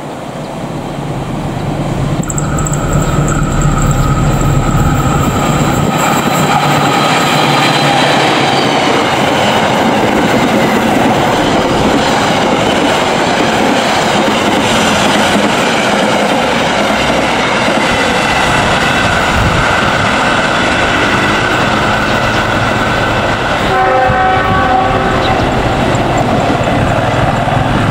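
Diesel-hauled passenger train passing at speed on the main line. The locomotive's horn is held for several seconds starting about two seconds in, and its pitch drops as the locomotive goes by. Then comes the steady rumble and wheel clatter of the passenger coaches rolling past on the rails, with a brief pulsing tone near the end.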